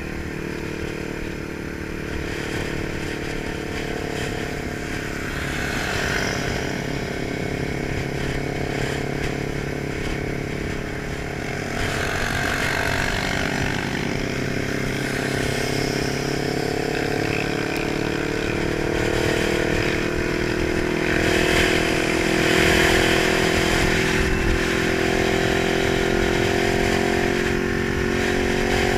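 Kawasaki 900 motorcycle engine running steadily, its pitch slowly rising through the middle of the stretch and then holding.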